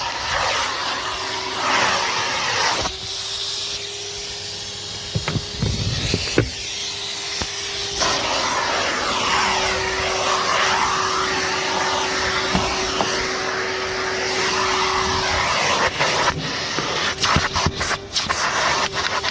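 Numatic Henry HVR200-22 vacuum cleaner running steadily with a constant motor whine under the rush of air. About three seconds in, the rushing air goes muffled for some five seconds, then comes back full. Clicks and rattles come through the nozzle near the end.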